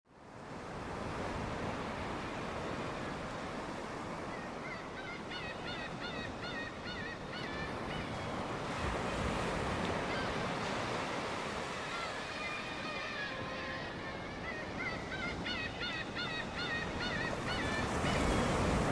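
Sea waves washing on the shore, fading in at the start, with black-tailed gulls calling in two bursts of many quick mewing cries, one a few seconds in and another in the second half.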